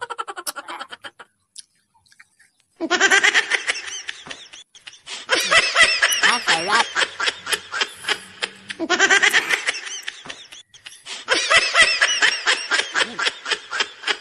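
Several long bursts of rapid, high-pitched laughter, louder than the speech around them.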